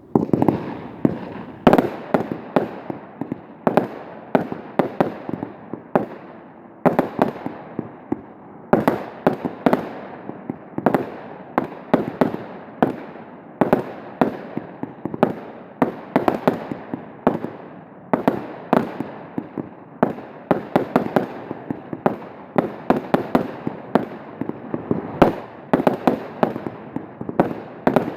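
Aerial fireworks going off in quick succession: a rapid, continuous barrage of sharp bangs and reports with crackling between them, several a second, with brief lulls.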